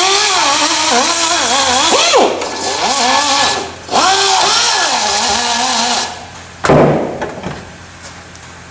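Hand-held electric power tool running in three bursts, its motor pitch wavering and dipping as it loads up. About seven seconds in there is a short, sharp loud noise that dies away.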